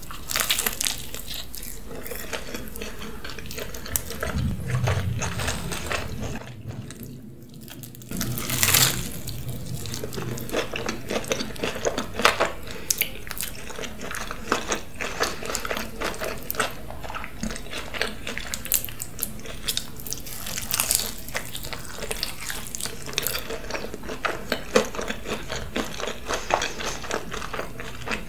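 Close-miked eating of cheesy pizza loaded with waffle fries and chicken nuggets: a bite, then wet chewing with many small mouth clicks and smacks, with a brief lull about seven seconds in.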